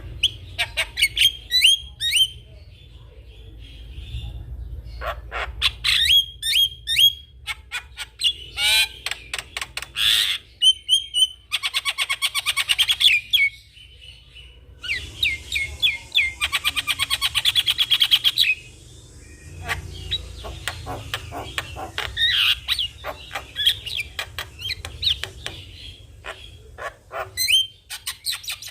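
Javan myna singing energetically: a varied run of sharp chirps and whistles, broken twice by long, harsh rattling passages of rapid repeated notes.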